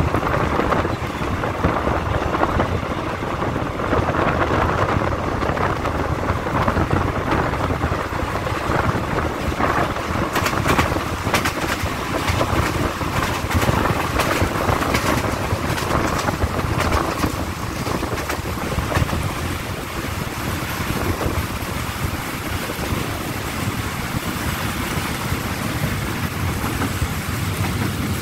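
Passenger train running along the track, heard from an open carriage door: a steady rumble of wheels on rails with rushing wind and scattered clicks in the middle. It eases off somewhat in the second half as the train slows into a station.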